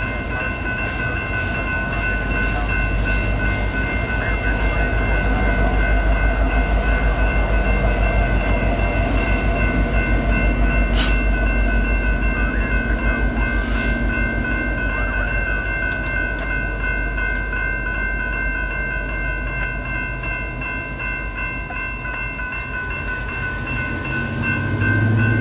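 Union Pacific coal train cars rolling through a grade crossing with a low, rhythmic rumble of wheels on rail. The crossing's electronic bells, an NEG E-Bell and a GS Type 3 E-Bell, ring steadily over it. The rumble swells over the first several seconds and eases later, and a deeper steady tone comes in near the end.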